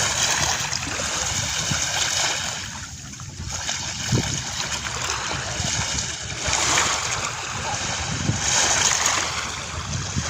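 Sea water washing and splashing onto a sandy beach, surging and easing off every couple of seconds.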